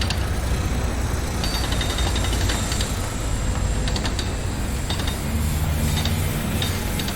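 Construction-site machinery: a heavy engine running steadily under a constant rumble, with short runs of rapid metallic clicking and rattling a few times.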